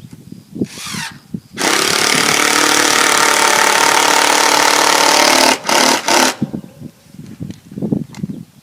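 A handheld power tool is run briefly, then runs steadily for about four seconds at a constant pitch, and stops after two short bursts.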